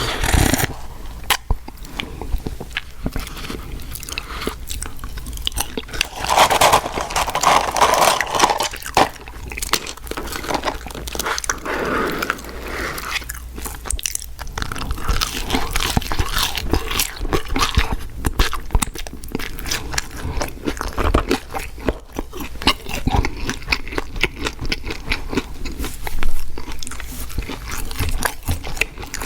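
Close-miked eating of fast food: a person biting and chewing, with a dense run of short, crisp crunching clicks.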